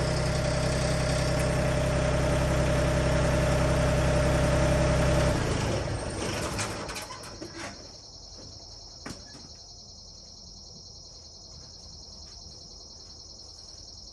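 An engine idling steadily, then shutting off about five and a half seconds in. After it stops, a steady high chorus of crickets and a few faint clicks remain.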